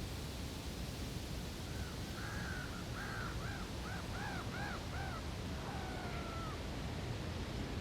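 A bird calling outdoors: a quick run of about eight short, arched, crow-like calls, then one longer drawn-out call, over a steady low background rumble of outdoor ambience.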